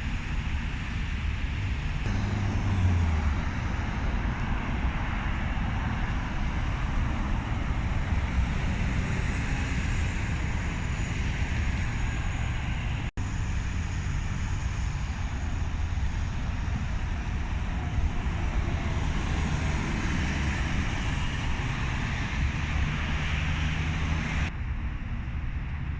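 Steady road traffic noise with a low rumble, with wind on the microphone; the sound drops out for an instant about halfway through.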